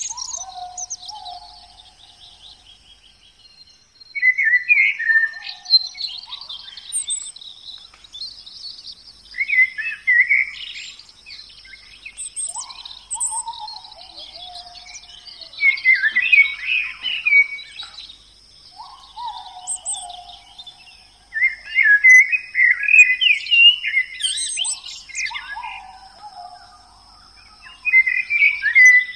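Birds singing and chirping in short repeated phrases, some with falling notes, recurring every few seconds over a faint steady high tone.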